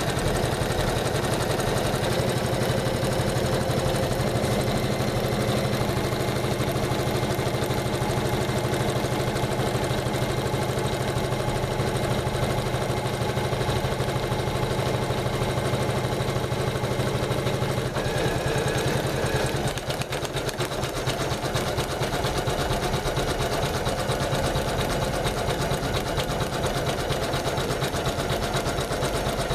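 Janome MC500E computerized embroidery machine stitching steadily at speed, a dense rapid needle rhythm, with a brief drop in level about twenty seconds in.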